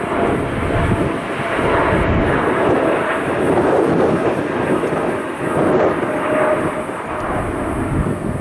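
Airliner engines at close range: a loud, steady rushing roar with a faint whine in it, while wind buffets the microphone with low rumbles.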